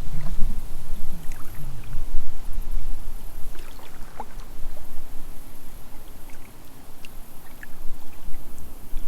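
Kayak paddle dipping into the creek, with small splashes and drips of water running off the blade. A low wind rumble buffets the microphone, strongest in the first two seconds.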